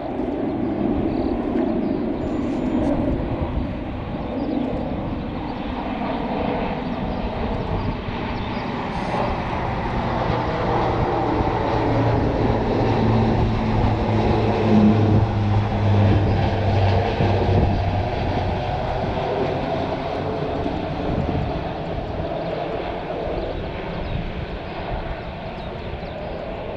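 Aircraft passing by: engine noise swells gradually to a peak about halfway through, then slowly fades.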